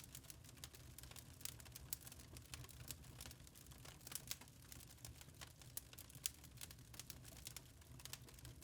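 Wood fire crackling in a fireplace: faint, irregular quick pops and snaps over a low steady rumble.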